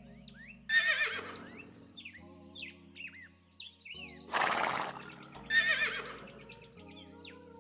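Horse neighing: a loud wavering whinny about a second in and another near six seconds, with a rough, noisy call between them. Small birds chirp throughout over soft background music with steady chords.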